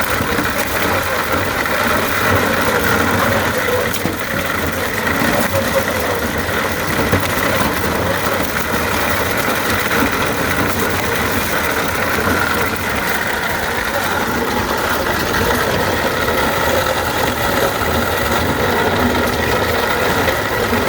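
Hit-and-miss engine driving a New Holland corn grinder as it grinds corn: a steady, continuous mechanical grinding noise with the engine running under it.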